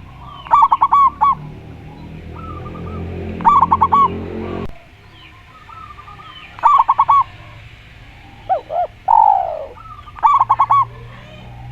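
Zebra dove and spotted dove cooing: a quick run of four or five clipped coos comes about every three seconds, with a lower pair of coos and one falling coo late on. A low hum swells under the first four and a half seconds and cuts off suddenly.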